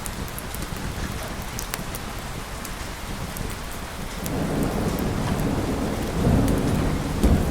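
Steady rain falling, with a low rumble of thunder building about four seconds in and swelling to its loudest near the end.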